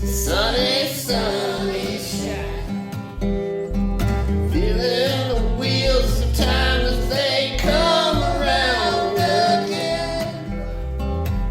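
Folk song: a voice singing long, wavering held notes over acoustic guitar and a low bass line.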